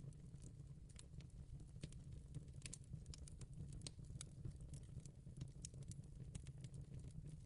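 Fire crackling in a fireplace: faint, irregular crackles and pops over a low steady rumble.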